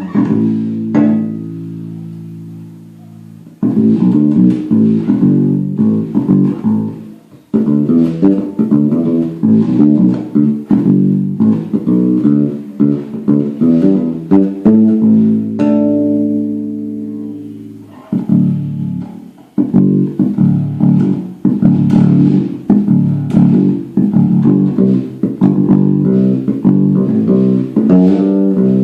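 Homemade electric bass guitar played solo, with a heavy tone and recorded on a phone: runs of plucked notes with a few long notes left to ring out and fade.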